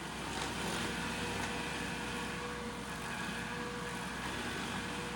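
Remote-controlled stump grinder's engine running steadily, with a thin steady whine over its drone.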